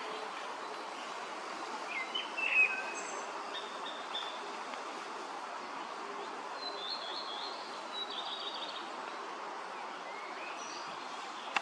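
Small birds chirping in short calls, a few scattered through, the loudest about two and a half seconds in, over the steady rush of flowing creek water.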